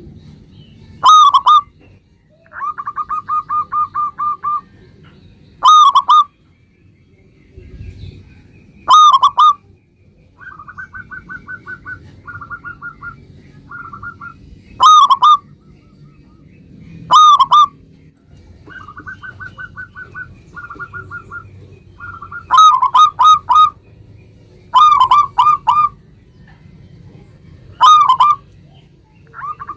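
Zebra doves (perkutut) cooing: loud, short, ringing coos every few seconds, some in quick pairs and triplets, alternating with fainter runs of rapid clipped notes on the same pitch.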